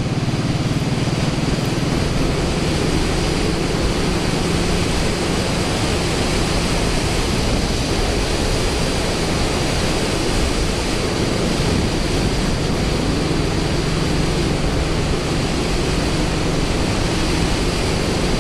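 Steady wind rush over the microphone on a moving motorcycle, with the Suzuki Boulevard C90's V-twin engine running underneath as a low, even hum.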